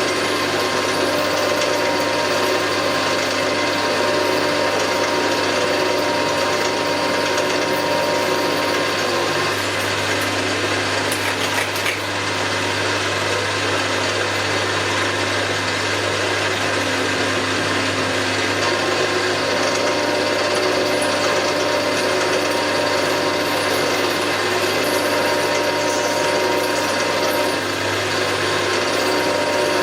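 Milling machine running steadily, drilling a 7/16-inch hole in a metal plate, with a constant motor hum and gear whine. For several seconds in the middle the whine drops back and a rougher cutting noise takes over.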